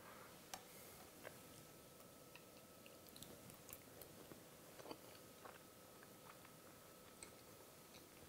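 Near silence with faint chewing: a mouthful of soft meatless meatball in marinara being chewed, with scattered small mouth clicks over a faint steady hum.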